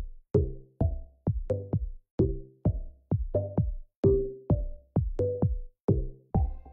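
Electronic background music with a punchy drum-machine beat, about two hits a second, each carrying short bass and synth notes.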